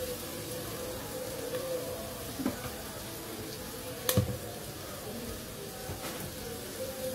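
Bitter gourd and chillies frying in a covered pan, a steady sizzle, with a single sharp knock about four seconds in.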